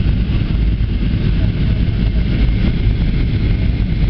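Steady cabin noise inside an Airbus A320 in flight: a constant low engine drone under the rush of airflow past the fuselage.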